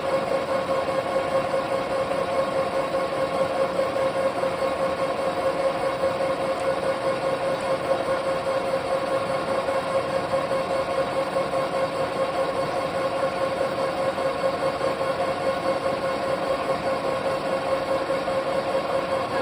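Metal lathe running steadily with a constant whine throughout.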